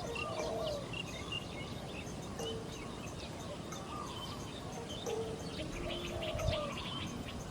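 A chorus of several birds: many short, high chirps overlapping, with lower rising-and-falling calls every second or two.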